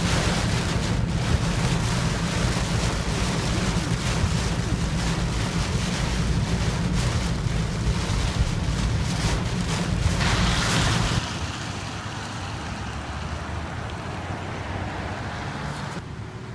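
Storm wind buffeting the microphone, a steady rushing noise with a heavy low rumble, dropping to a quieter hiss about eleven seconds in.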